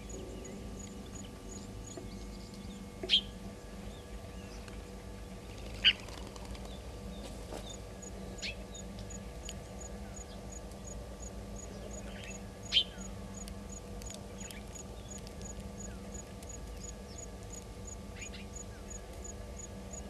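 Wild birds calling: three loud, short, sharp calls about 3, 6 and 13 seconds in, with a few fainter ones between, over a fast, even, high-pitched ticking and a steady low hum.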